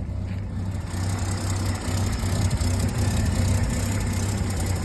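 1950 Chevrolet school bus's inline-six engine running steadily after starting on its freshly rebuilt carburetor, a little louder from about a second in.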